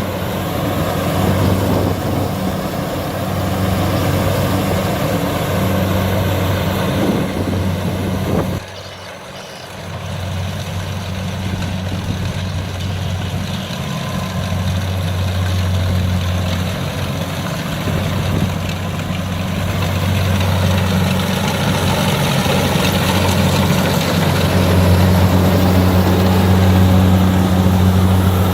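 Kubota DC60 combine harvester's diesel engine running steadily with a constant low hum. The sound drops away suddenly about nine seconds in and comes back a second or so later.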